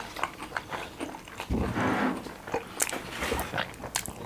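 Close-miked eating: chewing and wet mouth clicks, with a louder noisy sound lasting about half a second, about one and a half seconds in.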